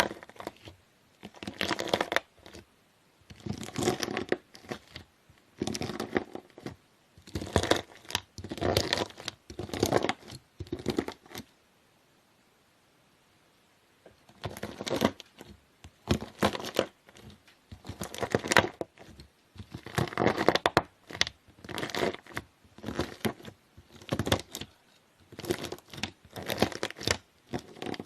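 Knife blade slicing through crunchy slime (floam), each cut a crinkly crackling crunch. The cuts come one after another at roughly one a second, with a pause of a couple of seconds near the middle.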